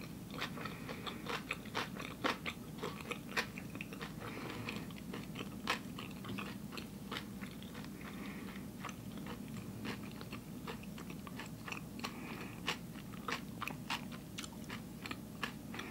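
A person chewing a bite of raw vegan nori sushi roll filled with cucumber, carrot and avocado, with many small irregular crunches.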